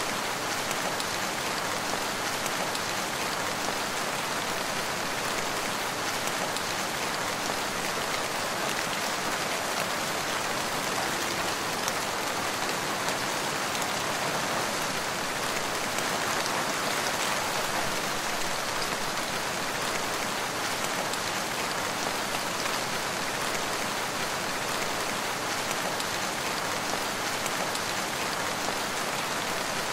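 Steady rain falling on the ground and leaves, an even patter with no thunder.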